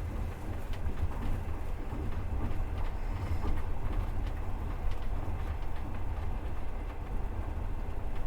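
Passenger train running, heard from inside the carriage: a steady low rumble of the wheels on the rails, with a few faint, irregular clicks.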